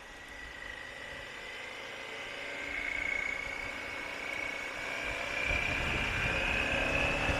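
Motorcycle engine and wind rush heard from the rider's camera, the engine note slowly rising and getting louder as the bike accelerates away, with low wind rumble building over the second half.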